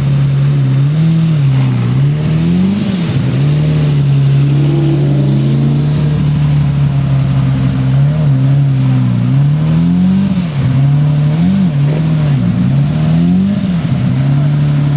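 Car engine running at a steady speed, its revs briefly rising and falling several times, about a second in, around three seconds, and again between eight and fourteen seconds.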